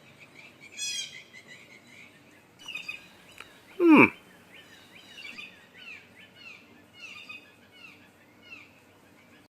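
Birds singing outdoors: a trill about a second in, then a run of short repeated chirps about two a second. About four seconds in, a brief loud swooping sound stands out above the birdsong.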